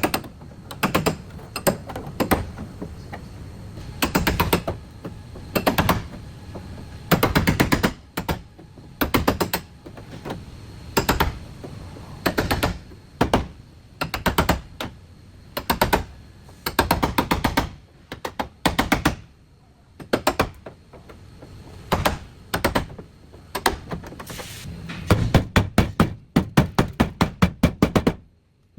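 Rapid metal-on-metal striking in short bursts, repeated every second or two, from body repair work on a car's steel panels. Near the end it becomes a run of separate blows, about three or four a second.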